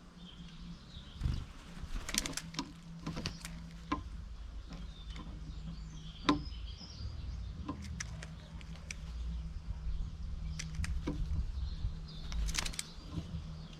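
Garden birds: faint high chirps, with a dozen or so sharp taps or clicks scattered through, over a steady low hum.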